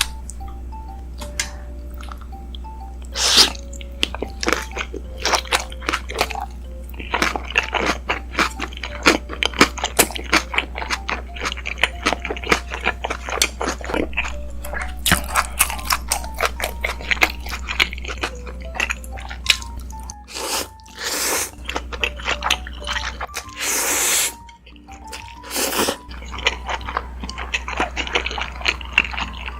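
Close-miked eating: wet chewing and crunching clicks, with a few louder noodle slurps, over soft background music.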